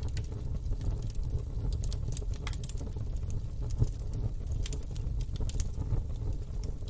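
Fire burning in a fire pit, crackling and popping in frequent short sharp snaps over a steady low rumble, with one louder pop about four seconds in.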